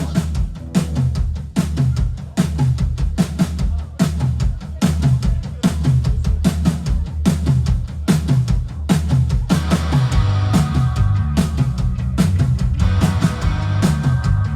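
A garage punk band playing live: a driving drum-kit beat of bass drum and snare over a heavy bass line, with sustained pitched instrument notes coming in about ten seconds in.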